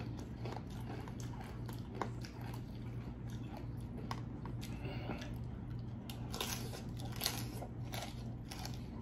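Close-miked chewing and crunching of a crisp tostada piece topped with shrimp ceviche, with many small crackles that come thickest and loudest about six to eight seconds in.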